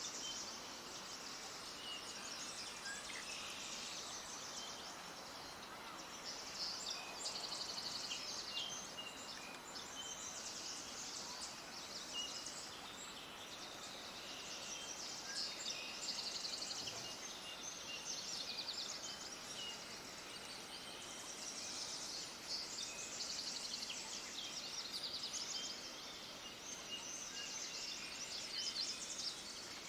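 A chorus of small birds chirping and trilling, many short high calls overlapping without pause over a steady background hiss.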